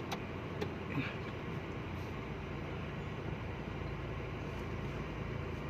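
Steady rumble of a moving road vehicle, engine and tyre noise heard from inside, with a few faint clicks.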